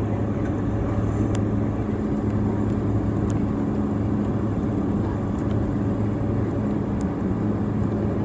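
Steady hum of a Boeing 767-300ER after landing, its engines running at low power, with a few faint light ticks.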